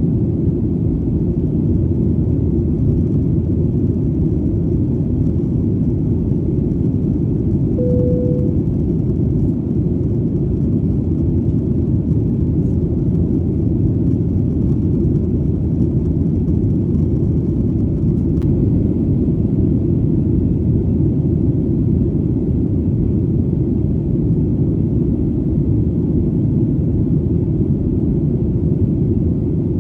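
Steady low rumble of an airplane's engines in flight, even throughout. A short steady tone sounds once, about eight seconds in.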